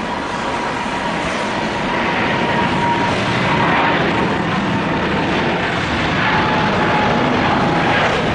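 Jet engines of an EVA Air Cargo Boeing 777F (GE90 turbofans) running at high power on the runway, a steady rushing roar that grows slowly louder, with a faint whine that drifts slightly lower in pitch.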